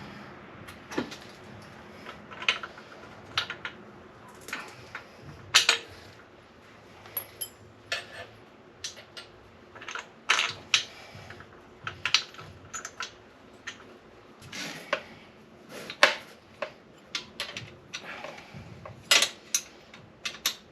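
Irregular metallic clinks and knocks of hand tools and exhaust hardware as the welded silencer and cut-down header pipe are fitted to the motorcycle, with the sharpest knocks around a quarter of the way in, about three-quarters of the way in and near the end.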